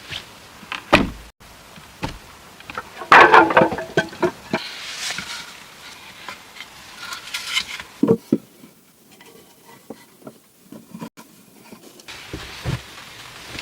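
Irregular rustling, scraping and knocks of someone moving about and handling things, with a dense stretch of rustling about three seconds in and quieter, scattered knocks in the last few seconds.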